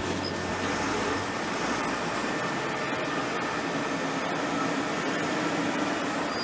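Steady engine and road noise of an Iveco 90-16 four-wheel-drive truck on the move, with a low rumble that fades within the first second.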